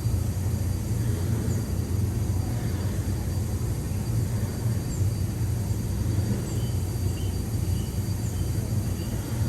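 Steady low rumble of the Liberty Square Riverboat, a paddle-wheel steamboat, cruising, heard from on board.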